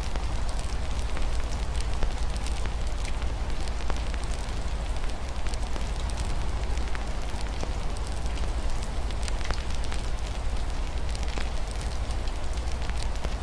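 Wood fire crackling with frequent sharp pops, over a steady hiss of rain on a window and a constant low rumble.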